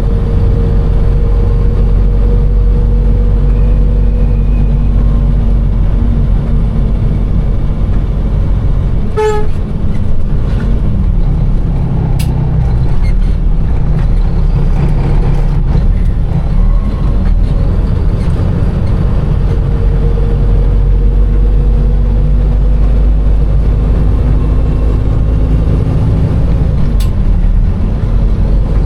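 Container truck's diesel engine running, heard from inside the cab, with a short horn toot about nine seconds in.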